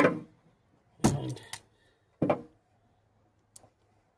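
Hand wire crimper and terminal being handled: three sharp clacks and knocks, at the start, about a second in and about two seconds in, then a faint tick near the end.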